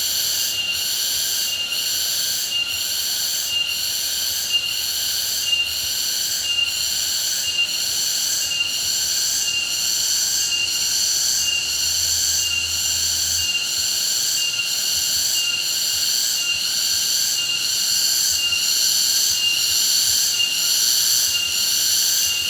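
Insect chorus: a loud, high-pitched shrill that pulses evenly about once a second without a break.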